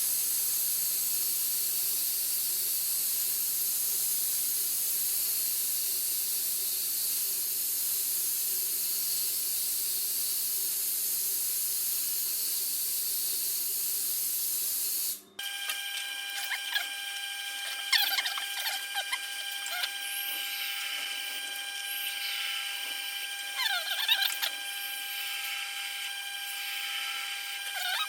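Sharpening machine running, first as a steady hiss with a low hum, then after a sudden break about halfway through as a steady whine with irregular scraping strokes of a blade against the wheel.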